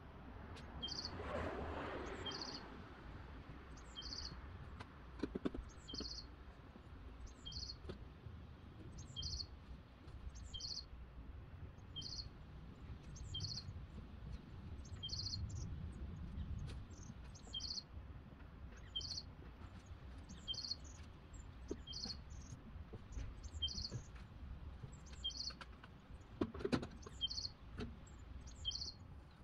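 A bird repeating a short, high call very regularly, about once every second and a half. A rustling noise comes about a second in, and a single sharp knock comes near the end.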